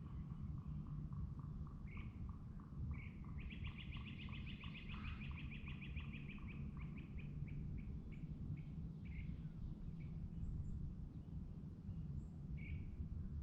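Songbirds calling over a steady low rumble. One bird repeats a lower note about three times a second through the first half; another gives a fast high trill from about three and a half seconds in, and single high chirps follow now and then.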